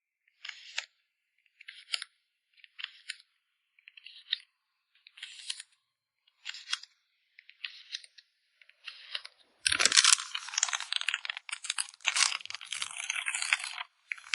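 Crinkly plastic packaging being handled while photocards are packed: a string of short rustles about a second apart, then louder continuous crinkling from about ten seconds in.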